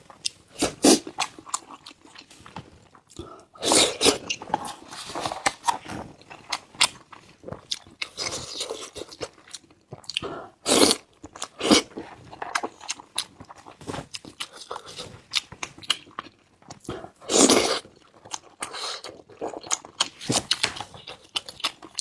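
Chewing and wet mouth sounds of someone eating pork and century-egg wontons: a run of short smacks and bites, with a few louder stretches about four, eleven and seventeen seconds in.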